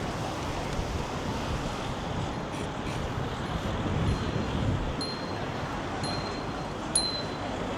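Busy street ambience: a steady wash of traffic and wind on the microphone, with faint short high beeps about once a second in the second half and a sharp click about seven seconds in.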